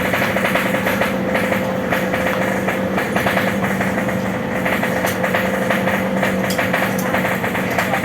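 A small engine running steadily at a constant speed, with a fast, even clattering tick over its hum.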